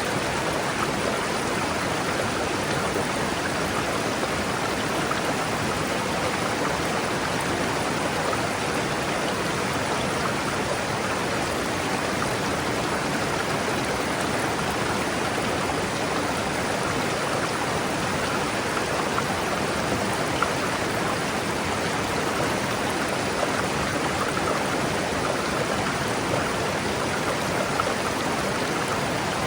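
A river running: steady rushing and burbling of water flowing over rocks, with a few small splashes.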